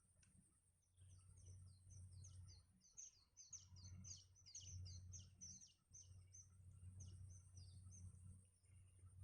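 Faint begging chirps of nestlings in a nest: a quick run of short, high, falling cheeps that crowds together around the middle and then thins out, over a low rumble.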